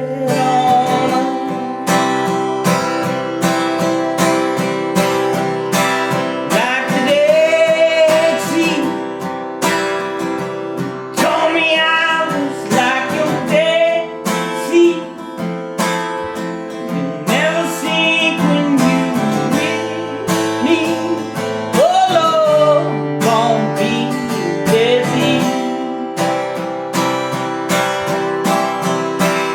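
Acoustic guitar strummed in steady rhythm, with a man's voice singing over it in phrases.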